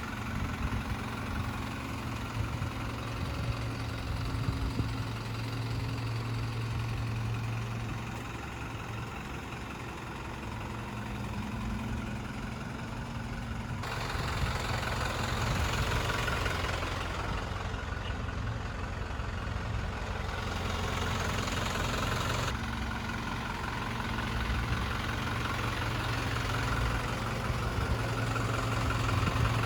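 2003 Hino Dutro U424 tipper truck's diesel engine idling steadily. For a stretch in the middle the sound turns abruptly brighter and hissier, then switches back.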